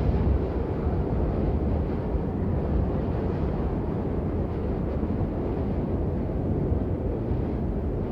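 Steady rain, an even, deep noise with a low rumble underneath and little high hiss.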